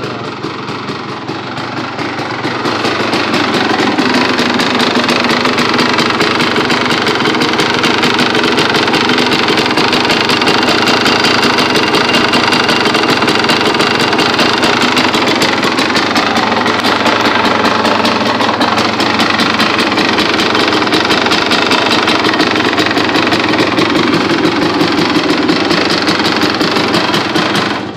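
2002 Honda CR250R's two-stroke single-cylinder engine running steadily. It grows louder over the first few seconds and cuts off abruptly at the end. The owner thinks it has a little tick and plans a top-end rebuild to cure it.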